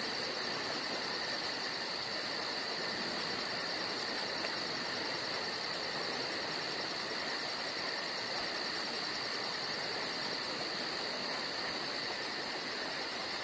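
Forest ambience of insects calling steadily: a very high cricket-like chirp pulsing about four times a second, with a brief break past the middle, over a continuous insect trill and a soft hiss.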